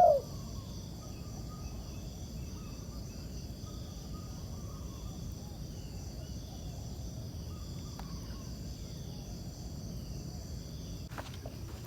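Rural outdoor ambience: steady chirring of insects such as crickets or cicadas, with faint scattered bird calls. A few sharp rustles or clicks come near the end.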